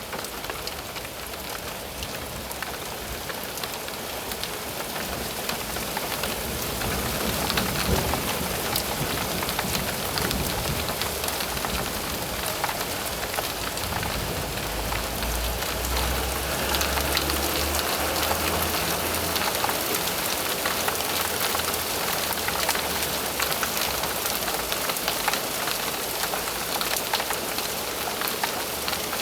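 Steady rain falling, with a low rumble of thunder that builds up a little before halfway through and fades over several seconds.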